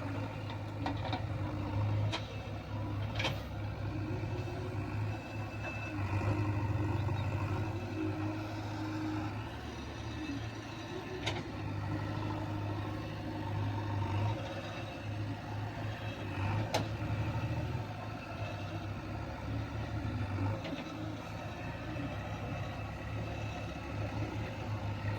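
Heavy diesel engine of a JCB 3DX backhoe loader running under varying load as it loads a tractor trolley. A few sharp knocks sound through it.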